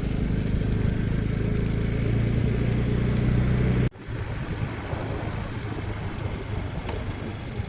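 Steady low rumble of a vehicle's engine and motion. It breaks off abruptly about four seconds in and gives way to a rougher, noisier rumble.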